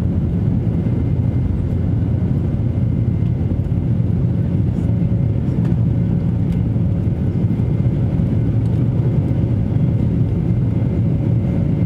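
Steady rumble of a Boeing 737-800's CFM56 engines and airflow heard from inside the passenger cabin, with a faint constant whine over the low drone.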